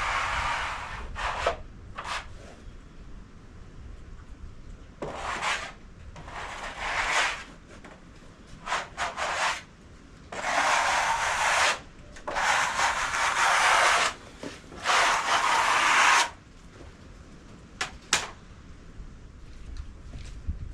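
Scraping and rubbing against freshly sawn oak boards in irregular strokes, each from about half a second to two seconds long, with short pauses between them.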